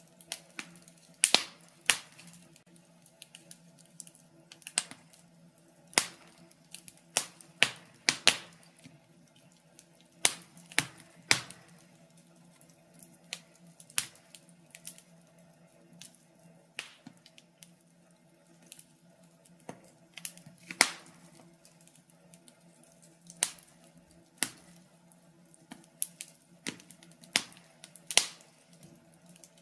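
Wood fire crackling in a fireplace: irregular sharp pops and snaps at uneven intervals, over a faint steady hum.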